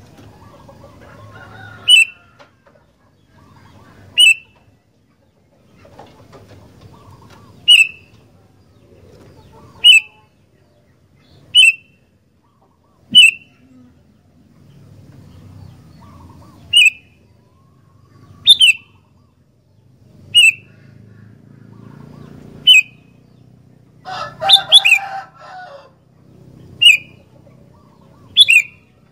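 Sooty-headed bulbul (kutilang) giving short, sharp, very loud calls about every one and a half to two seconds, with a longer chattering burst a little after twenty seconds in. A faint low background noise runs between the calls.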